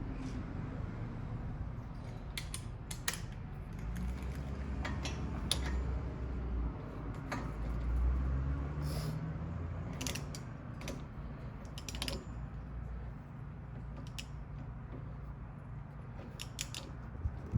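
A ratchet-head torque wrench working as bolts on the brake assembly are tightened down: a run of scattered, irregular metallic clicks over a low handling rumble.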